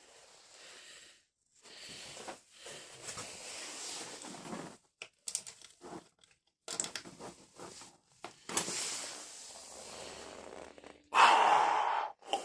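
Intermittent rustling and crackling noises in separate bursts, with a louder rush of noise near the end.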